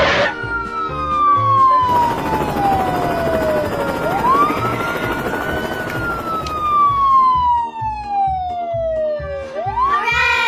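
Police siren wailing in slow cycles, each one rising quickly and then falling slowly over about four seconds; a new rise starts about four seconds in and again near the end. A steady beat of background music runs underneath.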